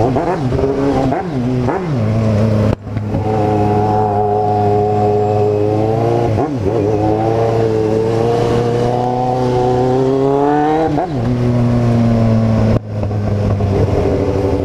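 Kawasaki Z750 inline-four engine running under way, its note climbing gently as the bike accelerates. There are short sharp drops in sound about three seconds in and again near the end. Around eleven seconds in the note rises quickly, then falls away.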